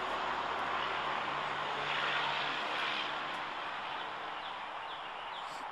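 A motor vehicle passing at a distance: a steady rushing noise with a faint low hum that swells about two seconds in and then slowly fades.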